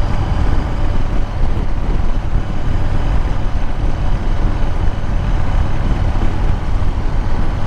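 Motorcycle riding at a steady cruise: the engine running evenly under a heavy, steady rush of wind noise.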